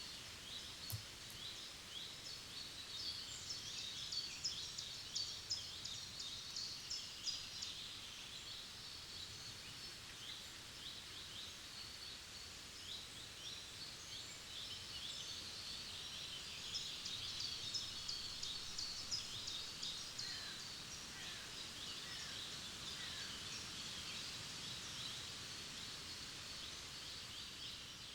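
Several forest songbirds singing at once: many short, high chirps and trills overlapping, busiest in the first half and again in the last third, over a faint steady background hiss.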